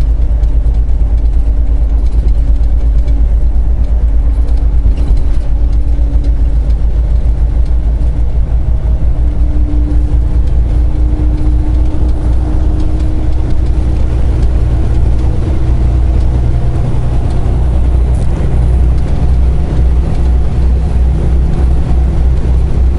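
Semi truck's diesel engine and road noise heard inside the cab: a steady low rumble, with a faint engine tone that rises slightly around the middle.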